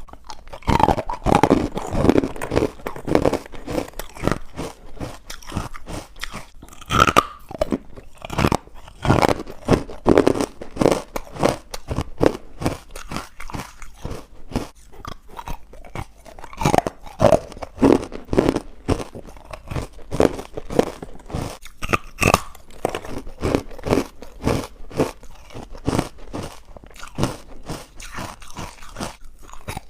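Close-up biting and chewing of chalky, powdery carbonated white ice bites: a continuous run of crisp, irregular crunches.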